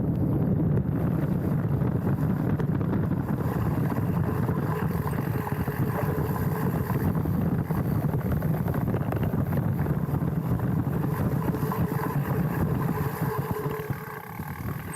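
Mountain bike riding down a dirt trail, heard from a handlebar-mounted camera: steady rumble of tyres over the ground with many small rattles and knocks, plus wind on the microphone. It quietens briefly near the end.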